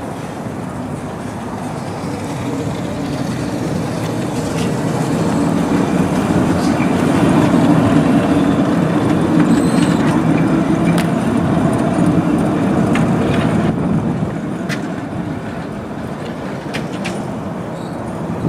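LM68M tram running on its rails, a steady rumble that swells to its loudest about halfway through and then fades, with a few sharp clicks scattered through it.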